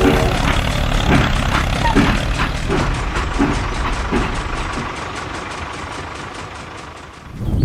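Small motor-driven machine running with a fast, even rattle, fading away near the end.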